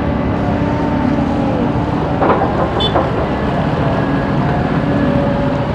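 Excavator's diesel engine running steadily, with two sharp knocks about two and three seconds in.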